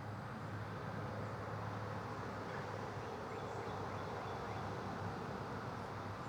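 A steady low hum over an even background rush, with no clear changes.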